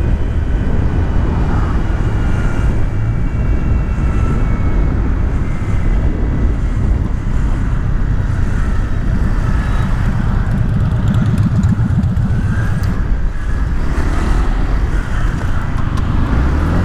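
Motorcycle engine running with a steady, heavy rumble of wind and road noise on the microphone.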